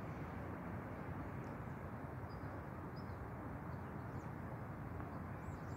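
Small birds chirping briefly and sporadically, faint high calls scattered over a steady low background rumble.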